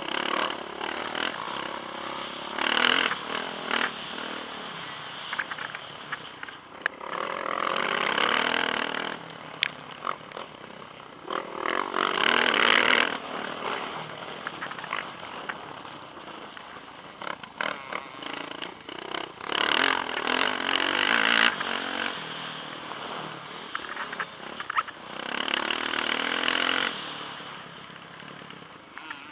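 Motocross bike's engine heard from the rider's helmet, rising in loud surges every few seconds as the throttle is opened and falling back between them, with wind noise on the microphone.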